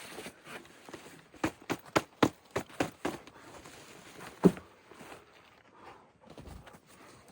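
A quick run of sharp crunching taps, about three or four a second, then one louder knock.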